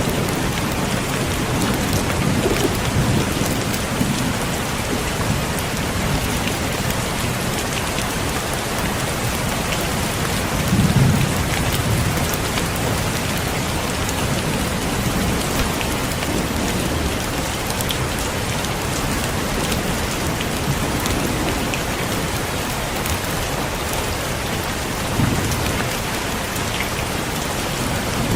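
Heavy steady rain, with low rumbles of thunder swelling up a few times, the loudest about eleven seconds in.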